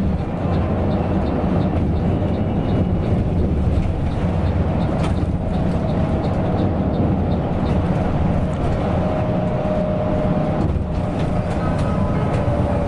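Coach bus under way: a steady low rumble of engine and road noise, with faint regular ticking in the first few seconds.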